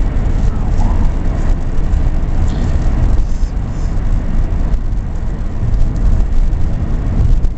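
Steady low rumble of car road and engine noise heard inside the cabin while driving.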